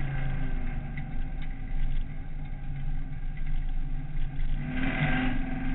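Dirt-circuit race car's engine heard from inside the cabin. Its note drops away about half a second in and runs low and rough, then picks up again near the end with a short rush of rattling noise.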